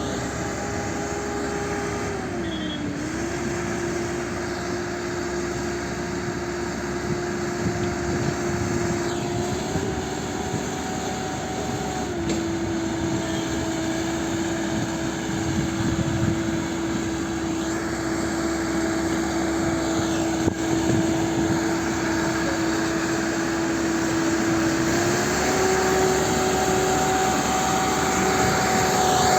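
HMT tractor's diesel engine running steadily while hauling a heavy load of sugar cane. Its whine dips in pitch briefly about three seconds in, then shifts slightly up and down a few more times.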